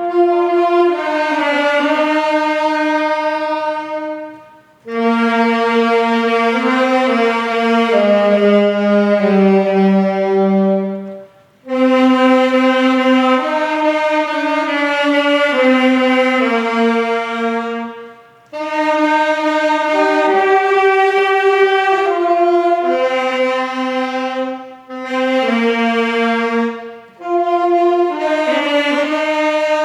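A slow melody played on a wind instrument in long sustained phrases, with a short pause between each phrase.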